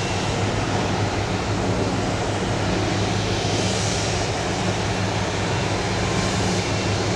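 Steady, unbroken jet aircraft engine noise with a low hum.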